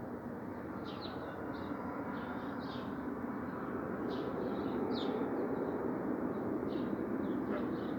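Low, steady rumbling noise from the sky, growing slowly louder. Small birds chirp over it.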